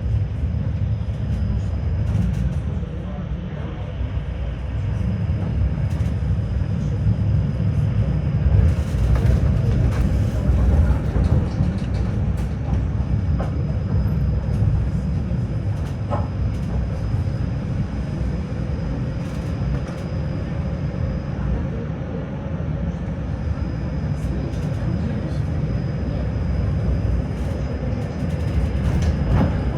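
Tram running along its line, heard from inside the car: a steady low rumble of the wheels on the rails and the car's running noise. A faint high whine comes and goes, with occasional clicks.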